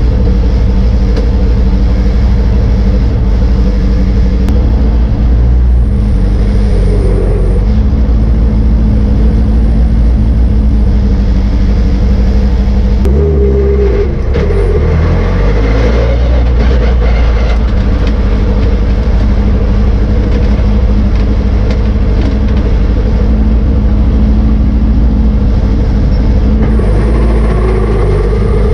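Racing car engine running hard under way, heard loud and close as from an onboard camera, with road and wind noise. The engine note breaks and shifts briefly about halfway through.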